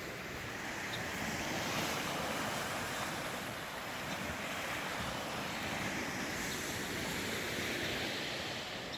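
Lake Superior waves washing against the shore: a steady surf that swells a few times, mixed with wind.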